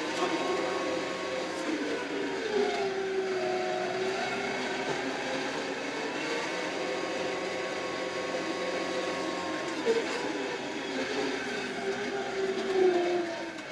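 Kioti RX7320 tractor's diesel engine running steadily under load while plowing snow, its pitch dipping and rising slightly a few times.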